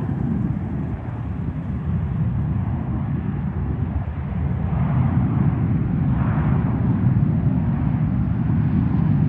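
Jet airliner engines rumbling steadily, slowly growing louder.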